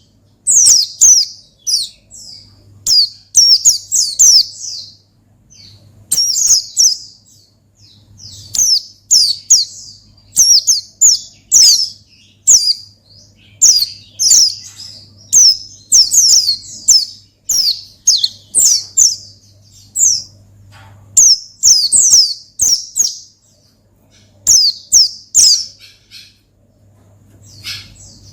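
Pleci (white-eye) singing hard in the fast 'ngalas' style, a rival-calling song: rapid, high-pitched phrases of quick falling chirps. The phrases follow one another almost without a break, with short pauses between bursts.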